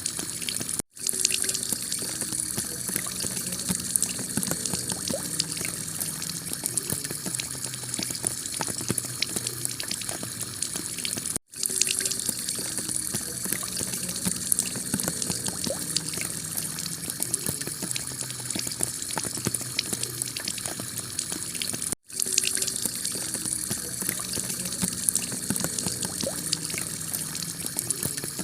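Heavy rain pouring onto a clay tile roof: a steady hiss thick with the ticks of single drops. It cuts out for a split second three times, about every ten and a half seconds.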